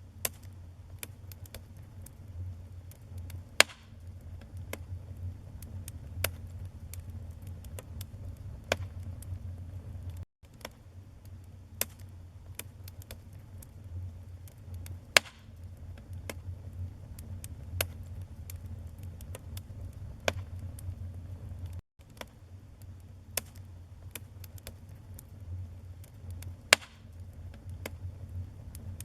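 Wood fire in a fireplace crackling, with scattered sharp snaps and a few louder pops over a steady low rumble of the flames. The sound cuts out for an instant twice.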